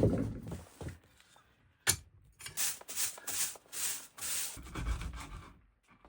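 Footsteps crunching through snow, about two steps a second. A sharp click comes first, about two seconds in.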